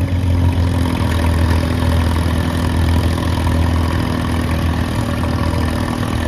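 Antique tractor engine running steadily under load, pulling the weight sled down the track.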